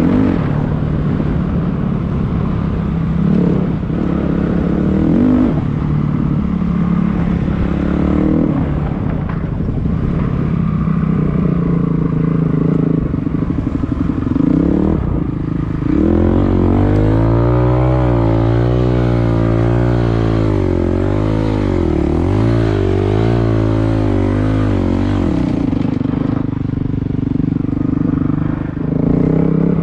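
Dirt bike engine running while riding, revving up and dropping back with the throttle. About halfway through comes a louder stretch of some nine seconds in which the engine note wavers up and down before falling back.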